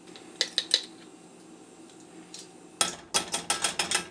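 A metal utensil clinking against a pan while stirring minced garlic into olive oil: a few scattered clinks, then a fast, even run of about seven clinks a second near the end.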